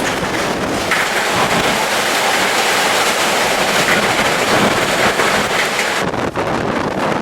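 Typhoon wind blowing hard: a loud, steady rushing noise with gusts buffeting the microphone. About six seconds in it turns gustier and duller.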